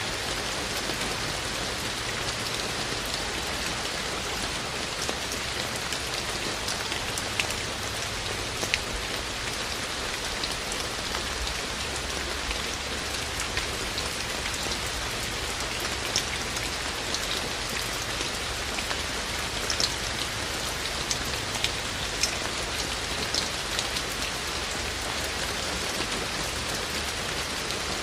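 Steady rain falling, with scattered sharper taps of single drops striking close by.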